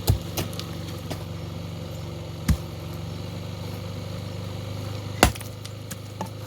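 Small gasoline engine running steadily at a fast idle, held up because it is still cold; the owner blames rust from the fuel tank getting into the pump. Three loud sharp knocks cut through, about two and a half seconds apart.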